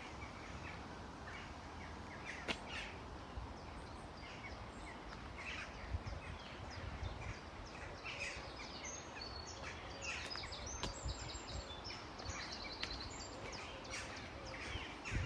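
Birds chirping and singing in many short calls, over a steady low rumble of wind on the microphone.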